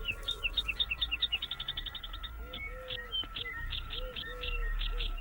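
Birds chirping: a fast run of high chirps that quickens over the first two seconds. From about halfway, short lower arched notes repeat beneath scattered high chirps.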